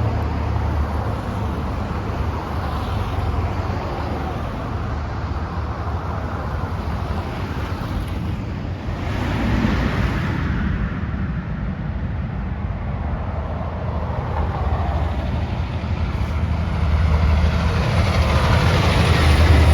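Road vehicle noise: a steady rumble of engine and tyres, swelling about nine seconds in and again near the end.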